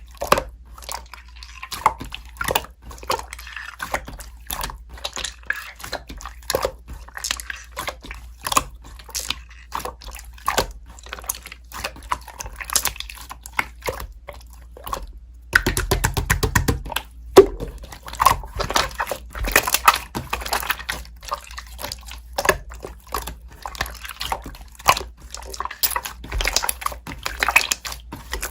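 Slime being squeezed, stretched and pressed by hand, giving an irregular run of wet clicks and small pops, with a faster burst of crackling a little past halfway.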